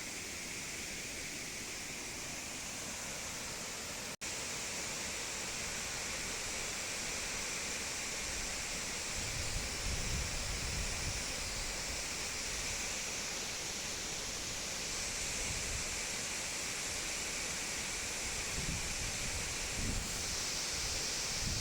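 Waterfall rushing with a steady roar, broken by a brief dropout about four seconds in. From about halfway on, low rumbling from wind on the microphone is added.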